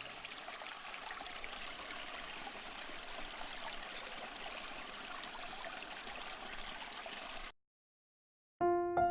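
Flowing river water, a steady rushing babble that cuts off about seven and a half seconds in. After a second of silence, piano music begins near the end.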